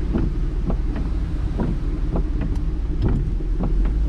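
A car driving through deep floodwater in hurricane wind and rain, heard from inside the cabin: a steady low rumble with short ticks repeating about twice a second.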